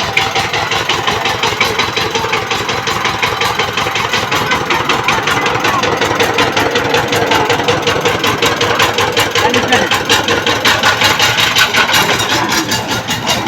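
Walk-behind power tiller engine running steadily after starting, with a rapid, even beat of firing strokes.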